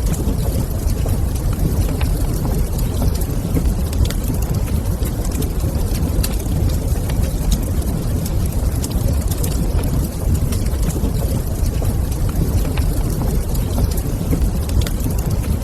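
Wood fire crackling in a fireplace: scattered sharp pops and ticks over a steady low rumble.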